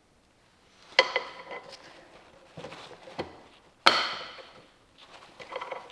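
Two sharp metallic clanks, each with a short ring, about a second in and again near four seconds, with lighter clicks and rattles between them: metal tools or transmission parts being handled and set down.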